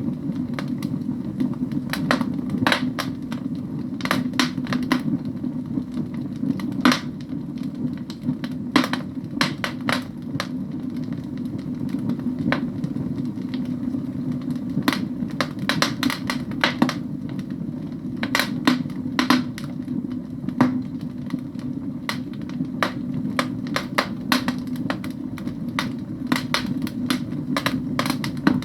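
Firewood burning in a fireplace, crackling with irregular sharp pops and snaps over a steady low rumble.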